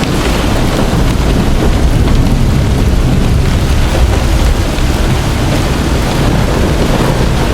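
Heavy rain in a severe storm, pouring steadily at a loud level with a deep rumble underneath.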